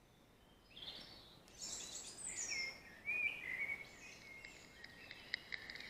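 Songbirds singing: a run of high chirps and short whistled phrases begins about a second in, with a few faint clicks near the end.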